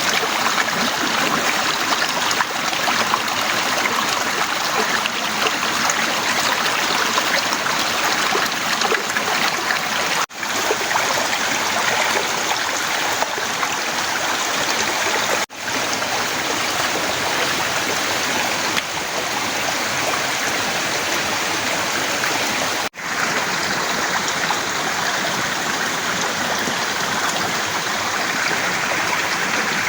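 Heavy rain falling steadily, an even rushing hiss that cuts out for an instant three times.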